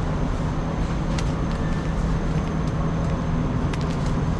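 Steady rumbling background noise of a busy railway station hall, with a few sharp clicks about a second in and again near the end.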